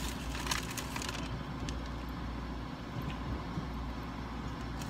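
A person biting into and chewing a burger, with a cluster of crackly mouth and wrapper noises in the first second and quieter chewing after, over a steady low rumble inside a parked car.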